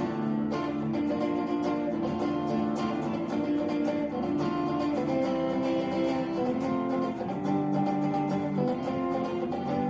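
Acoustic guitar strumming chords in a steady rhythm, an instrumental passage between sung lines.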